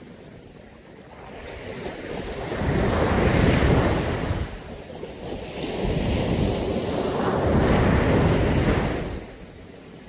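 Caribbean Sea waves breaking on a beach: the surf swells and washes in twice, the second wash longer, then falls back to a low hiss near the end.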